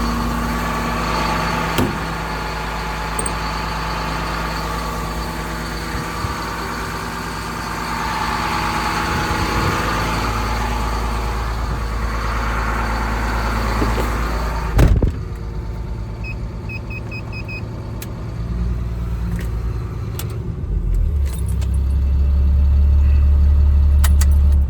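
Caterpillar C7 inline-six diesel running steadily, heard from inside the cab of a Ford F750 truck, loud enough to call a little loud. About two-thirds of the way in there is a sharp click and a few short high beeps. In the last few seconds a deeper, louder hum comes in.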